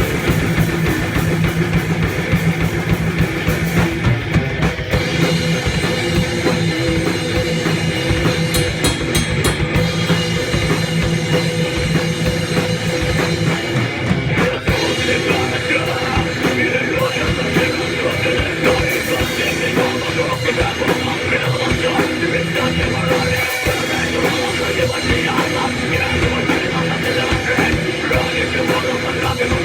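Heavy metal band playing an instrumental passage: distorted electric guitars over a driving drum kit.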